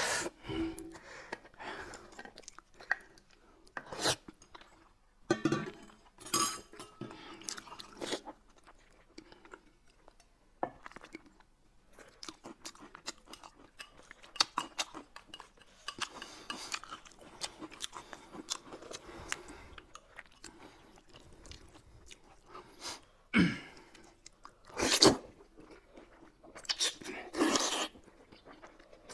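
Close-miked eating sounds: chewing and slurping of wide flat noodles, with several louder slurps in the last few seconds.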